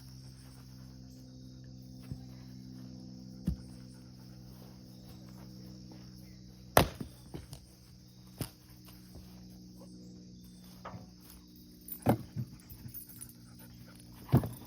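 Firewood being split: several sharp wood knocks at irregular intervals, the loudest about seven seconds in, over a steady low hum and a high insect buzz.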